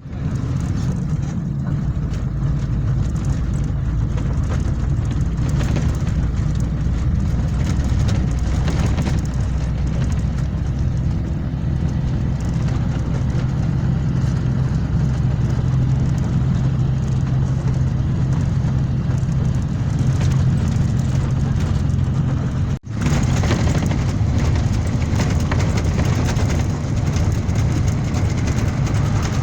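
Steady low drone of a running engine, as from a road vehicle, cutting out for an instant about three quarters of the way through.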